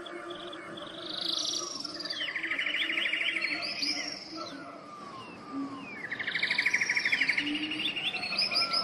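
Birdsong: whistled chirps and sweeping notes, with a rapid trill about two seconds in and a louder one about six seconds in.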